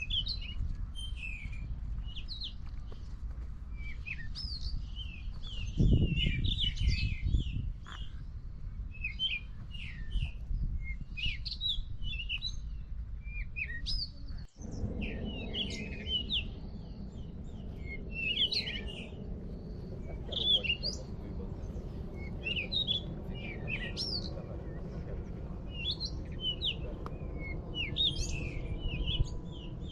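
Many small birds chirping and twittering without pause. There is a low rumble underneath, strongest about six seconds in, and after a brief break in the sound a faint steady low hum joins.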